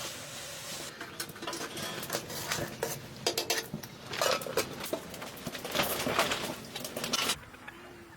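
Utensils clattering and scraping against dishes and cookware in quick irregular strokes, stopping abruptly about seven seconds in.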